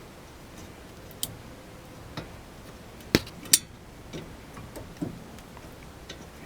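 Scattered sharp metallic clicks and taps, the loudest two close together about three seconds in: metal parts and tools being handled as a car's front brake caliper is refitted and its bolts started by hand.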